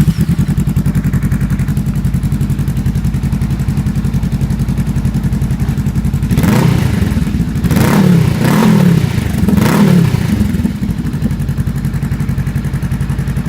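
Honda Rebel 500's parallel-twin engine running through an aftermarket Coffman's exhaust in place of the stock muffler, idling steadily. About six seconds in it is revved four times in quick succession, each rev rising and falling back, then it settles to idle again.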